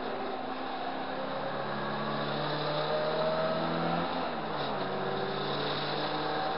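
Riley 1.5's four-cylinder B-series engine pulling hard under racing load, heard from inside the cabin. Its pitch climbs steadily, drops about four seconds in, then climbs again.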